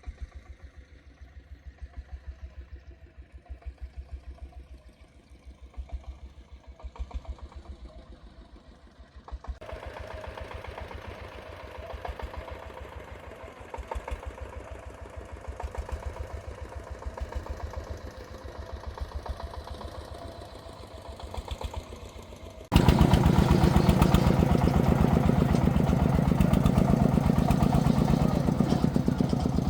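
Single-cylinder diesel engine of a Vietnamese công nông farm vehicle running with a steady, rapid beat. It suddenly gets much louder near the end.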